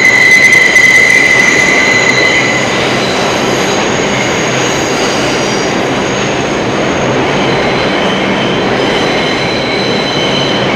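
Train wheels squealing on the rails over a steady rolling rumble; a high squeal is loudest for the first two seconds or so, then eases into fainter squealing tones.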